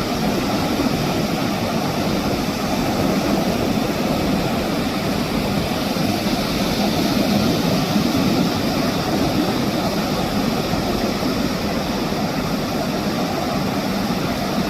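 Ocean surf breaking on a sandy beach: a steady wash of wave noise that swells slightly about halfway through.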